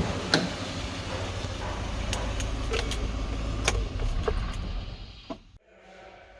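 Irregular sharp metallic clinks of hand tools on the engine, heard over a low steady rumble, as the valve cover is being taken off. The sound drops away to a quiet stretch near the end.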